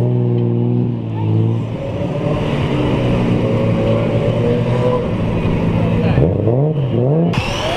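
A car engine idling, its pitch rising slowly, then two quick throttle blips near the end.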